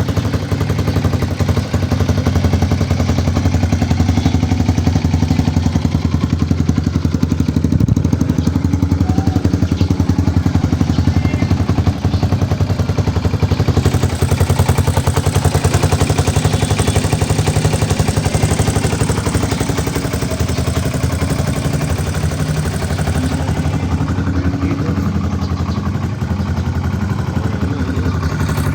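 1998 Suzuki DR200's single-cylinder four-stroke engine running steadily, with no revving.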